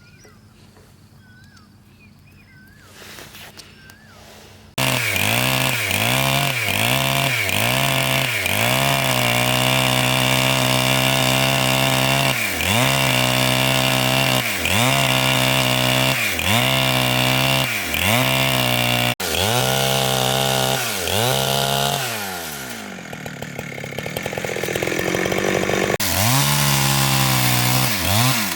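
Chainsaw engine cutting in abruptly about five seconds in after a faint quiet start, blipped up and down about once a second, then run at high revs with brief dips. About two-thirds of the way through its pitch and loudness sag, then climb back to high revs near the end.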